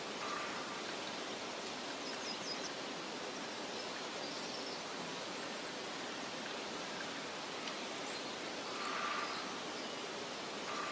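Meadow ambience: a steady soft hiss with faint, high bird chirps now and then, including a quick run of chirps about two seconds in. A faint tone swells and fades near the end.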